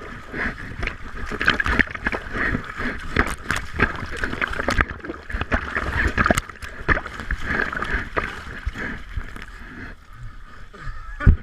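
River rapids rushing and splashing close to the microphone, with sloshing and gurgling water and many short splashes as a person floats through them. A single loud knock or splash comes near the end.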